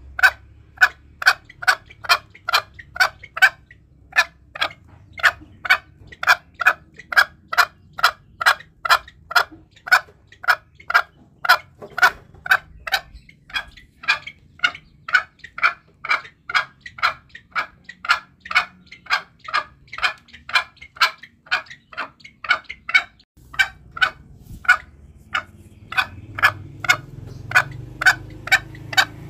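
Green junglefowl giving short clucking calls in a steady run, about two a second, with a brief pause about three quarters of the way through.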